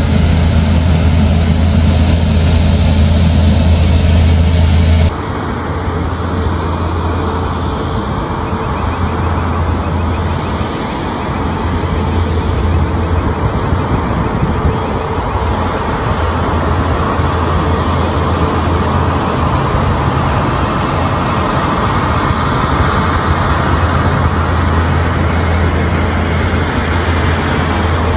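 Loud, steady engine noise with a deep hum running underneath, which changes abruptly about five seconds in to a slightly quieter stretch.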